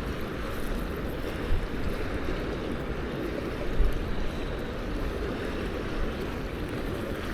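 Steady rush of river water, with wind on the microphone adding a low, uneven rumble.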